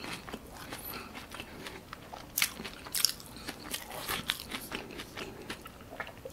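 Close-miked chewing of a mouthful of crispy curly fries: soft, scattered crunching, with a few sharper crunches around the middle.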